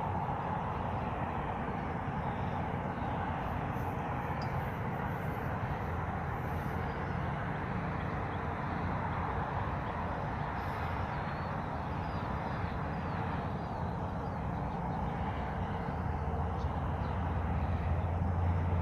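Outdoor ambience: a steady rushing noise with faint bird chirps about halfway through, and a low rumble swelling near the end.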